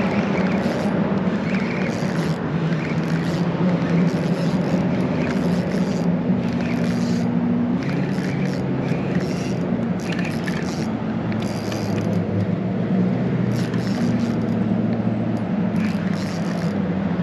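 A steady low motor drone with several tones that step lower about eight seconds in and shift again a few seconds later, over a constant noisy hiss.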